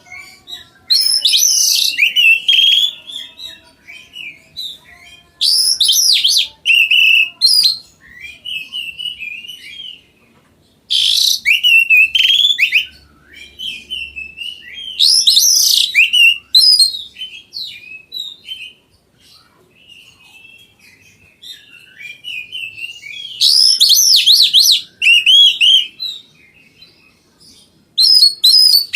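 Oriental magpie-robin (kacer) singing in full voice: loud, varied phrases of quick whistles and rasping notes, each a second or two long and recurring every few seconds, with quieter chirps in the pauses.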